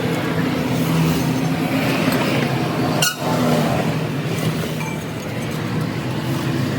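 Steady mechanical running noise with a low hum, broken by a brief dropout about three seconds in.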